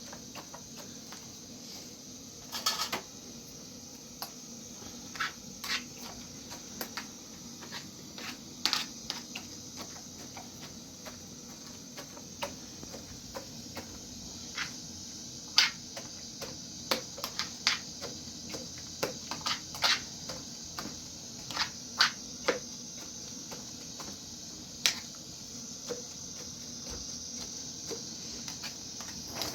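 Scattered sharp clicks and knocks at irregular intervals over a steady hiss.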